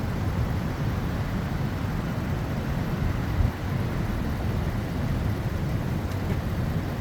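Steady wind rumbling on the microphone, with ocean surf washing underneath.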